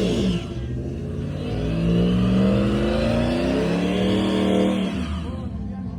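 A vehicle engine, likely a truck's, revving: its pitch dips briefly, climbs over a second or two, holds high, then falls back near the end.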